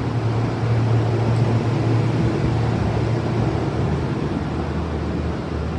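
A TK Elevator lift's machinery running with a steady low hum, a little stronger in the first few seconds.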